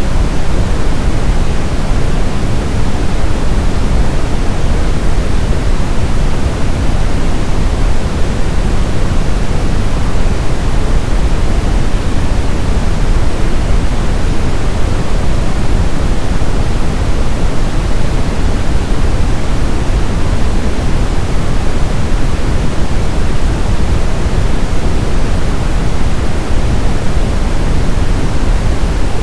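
Steady, loud brown noise: a continuous deep rushing hiss, heaviest in the low end and fading toward the highs.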